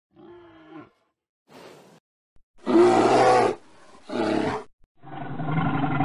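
Animal roars: two loud harsh calls about three and four seconds in, then a long, steady brown bear roar that starts about five seconds in.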